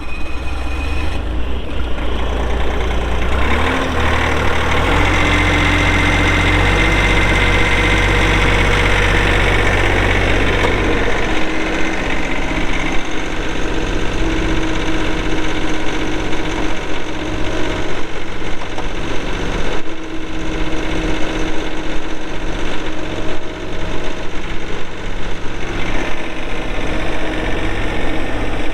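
2019 Bobcat S450 skid steer's diesel engine running steadily just after start-up. Its low note shifts about eleven seconds in.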